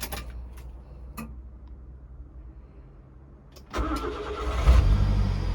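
A few faint clicks, then the engine of a 1997 four-wheel-drive Japanese import cranks and fires near the end, surges briefly as it catches and settles into a steady idle.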